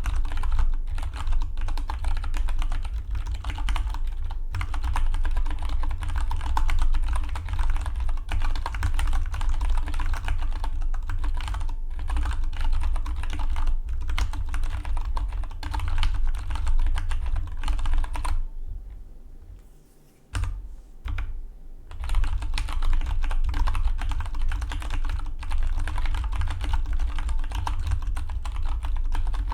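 Fast, continuous typing on a Dygma Defy split mechanical keyboard: a dense run of key clicks. A little past halfway the typing stops for about three seconds, broken by only a couple of keystrokes, then resumes.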